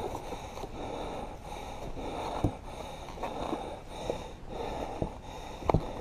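A rider panting hard through his mouth close to the microphone, in heavy breaths about a second apart, winded from the exertion of riding. A couple of sharp knocks cut in, one about halfway through and one near the end.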